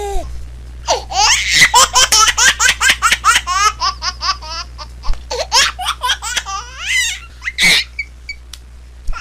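Baby laughing: a fast run of short, high-pitched laughs, several a second, that slows after about four seconds, with one more laugh near the end, over a low steady hum.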